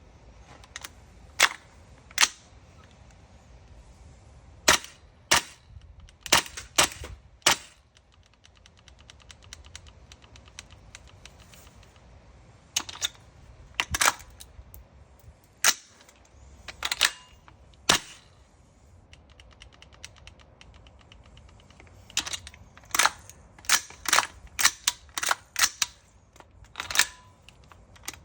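Tokyo Marui MWS gas blowback airsoft rifle firing sharp single shots at uneven intervals, some in quick pairs, with fainter clicks in between. The rifle is misfiring, and the owner asks whether the trigger box could be the cause.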